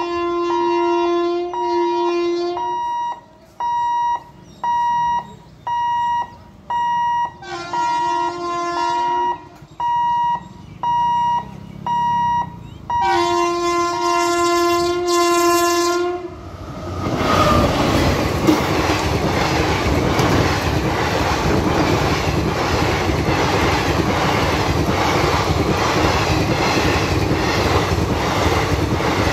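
WAP-7 electric locomotive's horn sounding three long blasts as the train approaches, over a steady high beeping about once a second. From just past halfway the express thunders past close by, its coaches' wheels clattering over the rail joints.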